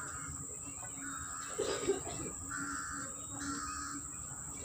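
A bird calling three times, each call about half a second long. There is a short knock about two seconds in.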